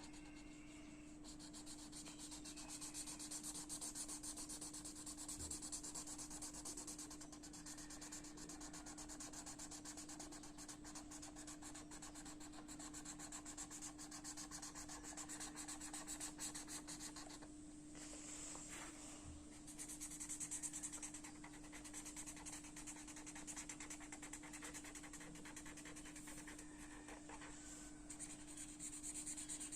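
Rapid back-and-forth colouring strokes on paper, a dry scratchy rubbing that pauses briefly partway through, over a steady low electrical hum.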